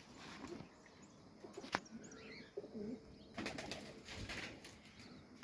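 Highflyer pigeons' wings flapping in flurries, with low cooing between them and one sharp click just under two seconds in.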